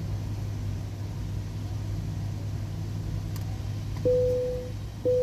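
Car engine idling steadily while a car wash pay kiosk's card reader gives loud, single-pitched beeps of under a second each, about once a second, starting about four seconds in. The beeps mark the gift card payment not going through.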